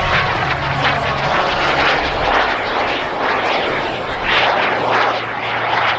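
Small single-engine jet's PBS Velká Bíteš TJ100 turbojet rushing through the air during an aerobatic pass, a loud steady jet noise that swells and fades several times.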